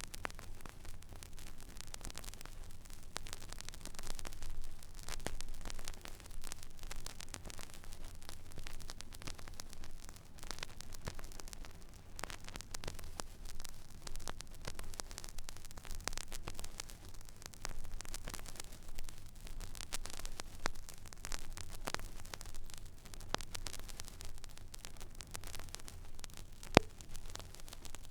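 Stylus riding an empty groove on a vinyl record: steady surface hiss and crackle dotted with small clicks, over a low hum. One sharper pop stands out near the end.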